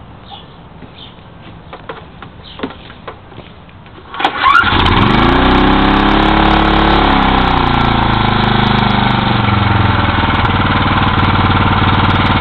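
2003 Briggs & Stratton 5 HP single-cylinder, four-stroke flathead outboard motor being pull-started after a few seconds of small clicks; it catches about four seconds in, its speed rises and dips for a couple of seconds, then it settles into steady running.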